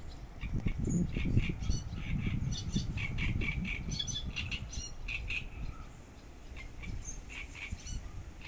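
Birds chirping in many quick, short, high notes, over a low rumble that is loudest in the first half.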